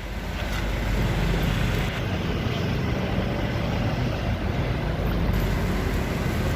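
A vehicle engine running steadily: a low hum under an even wash of noise.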